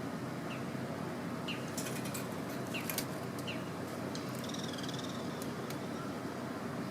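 Campfire crackling with sharp pops, most of them between about two and three seconds in, over a steady low rumble. Small birds chirp in short falling notes, with one wavering call about halfway through.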